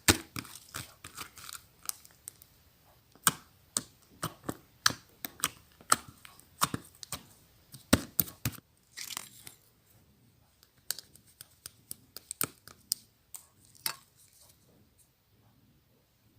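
Slime being pressed and folded by hand, making irregular sharp clicks and pops, roughly two a second, that thin out near the end.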